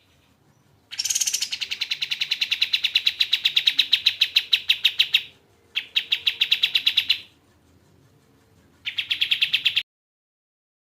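Kapas tembak bird calling in three runs of fast, evenly repeated high chips, about eight a second. The first run is the longest, and each run breaks off abruptly.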